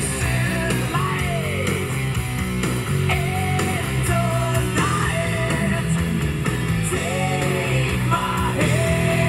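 Rock-style music with guitar and vocal lines, played back through VIBE Audio car speakers under test.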